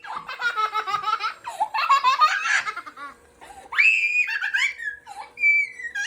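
A young child laughing hard in two long fits, then squealing in a high voice in the second half.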